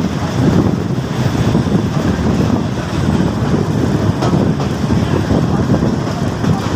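Passenger train running slowly, heard from an open coach door: a steady low rumble of wheels and running gear. The train is crawling over a badly maintained stretch of track.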